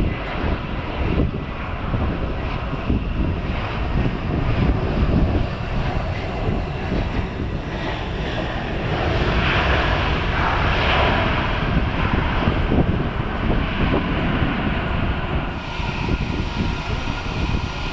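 Jet engines of an arriving Airbus A320-232, a Tigerair Taiwan airliner, with its IAE V2500 turbofans: a loud, steady rushing noise. The noise swells to its strongest about nine to twelve seconds in, then eases.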